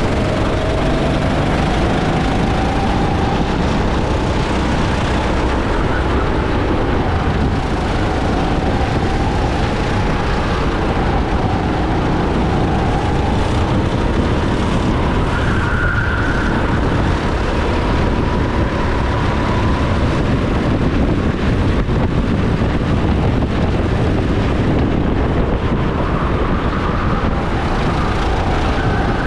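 Go-kart engine heard from onboard during a race, its pitch rising and falling as the kart speeds up on the straights and slows for corners, over a steady rush of noise.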